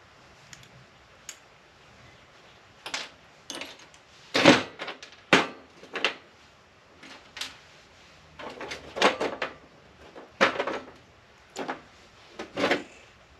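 Irregular knocks and clatters, about a dozen over ten seconds with short pauses between, from tools and metal parts being handled while an APC battery backup unit is taken apart for scrap. The loudest come about four and a half seconds in.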